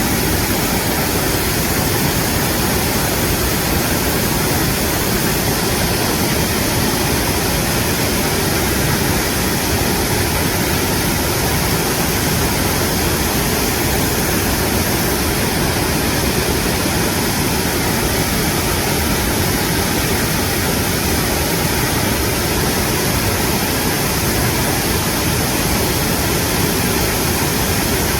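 Mountain valley stream rushing over rocks, a loud, steady, dense roar of water that doesn't let up.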